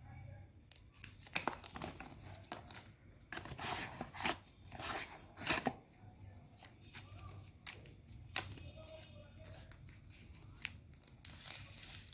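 Phone packaging being opened and handled: irregular rustling, crinkling and tearing of paper and plastic, with sharp clicks.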